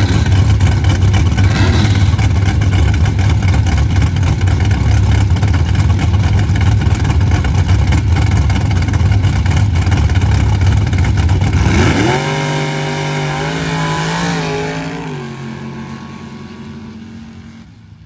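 A sand drag race vehicle's engine, loud at close range, then about twelve seconds in a clear engine note that climbs in pitch in steps, like gear changes, and fades as the vehicle pulls away down the sand strip.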